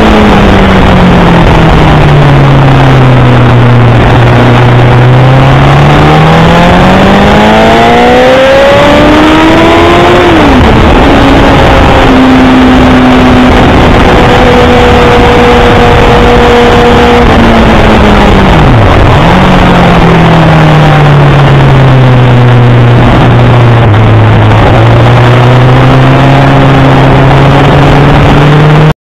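Honda CBR1000RR's inline-four engine at speed, heard onboard through heavy wind rush. The revs fall and climb again through the corners, with a sudden drop in pitch about ten seconds in, a sharp dip and recovery about nineteen seconds in, and a steady pull in between. The sound cuts off suddenly near the end.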